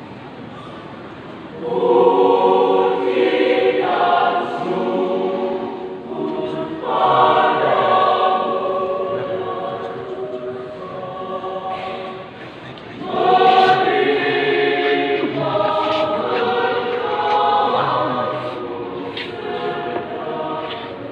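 A mixed church choir singing in parts. It comes in loudly about two seconds in after a quiet pause and sings in long phrases, with a strong new entry past the halfway point.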